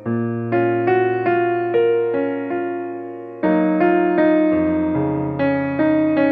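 Background piano music: a gentle melody of struck notes over sustained chords, each note fading before the next, with a new bass chord a little past halfway.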